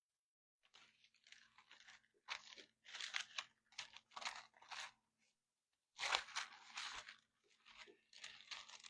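Bible pages rustling and being flipped, a series of short soft papery bursts, over a faint steady hum.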